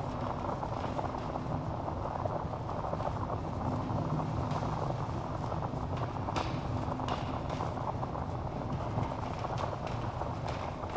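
Log fire crackling in a fireplace: a dense run of small crackles with several sharper pops, the loudest about six and a half seconds in.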